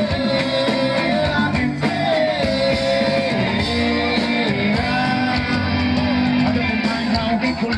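Live band music: a voice holding long, wavering notes over guitar and a steady beat.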